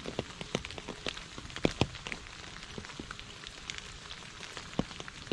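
Rain falling into a puddle and on wet fallen leaves: a steady patter with many separate drop hits, a few louder ones about a second and a half in and near the end.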